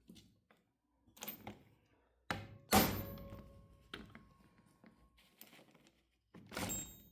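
Hammer blows on a stuck carburetor part: several sharp metallic strikes, the loudest about three seconds in leaving a ringing tone that fades over a couple of seconds. The part is seized and does not come loose.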